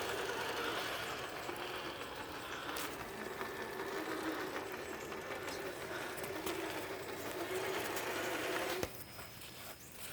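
Traxxas TRX-4 RC crawler's electric motor and gearbox whining steadily as it drives, wavering a little in pitch, then cutting off sharply with a click near the end.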